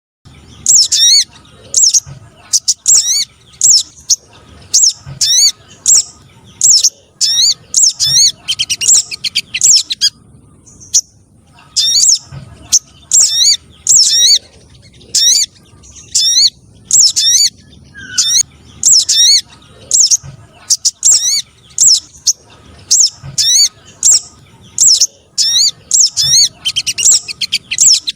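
Recorded spiderhunter calls played as a lure: short, sharp, high-pitched calls repeated a few times a second, with a short lull about ten seconds in.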